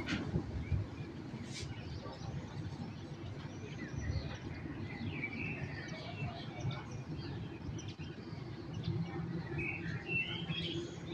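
Small songbirds chirping and twittering in short repeated notes, over a steady low background rumble of city noise.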